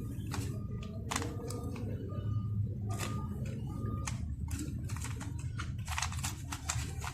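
Scattered clicks and knocks of gel blaster parts being handled, some in quick clusters, over a steady low hum.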